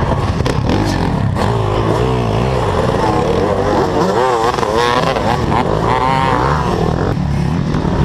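Dirt bike engine running and being revved, its pitch rising and falling again and again.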